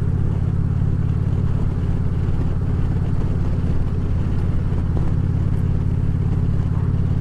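Harley-Davidson Ultra Classic Limited's V-twin engine running steadily at cruising speed on the road, a constant low drone with wind and road noise over it.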